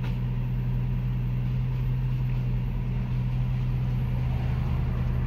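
Steady low hum of an idling vehicle engine, heard from inside a stopped car's cabin.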